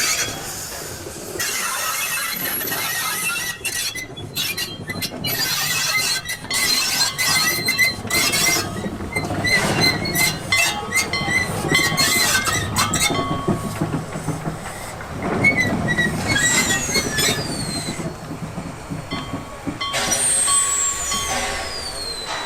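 Slow-moving steam-era train with its wheels squealing against the rails, over a run of metallic clanks and knocks. Two high squeals slide down in pitch near the middle and near the end.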